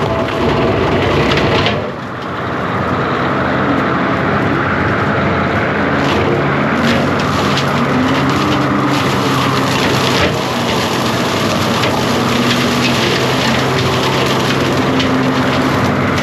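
John Deere 333G compact track loader's diesel engine running steadily under load. Wood cracks and snaps repeatedly from about six seconds in as brush and limbs are cut and broken.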